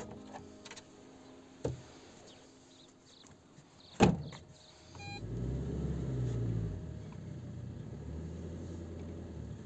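A car door shuts with a thud, a short electronic beep follows, then a car engine starts and runs steadily at idle.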